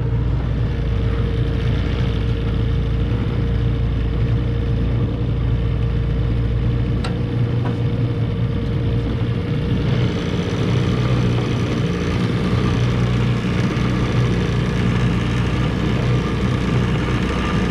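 Mercury 9.8 two-stroke outboard motor running steadily with the boat under way, its sound growing a little brighter about ten seconds in.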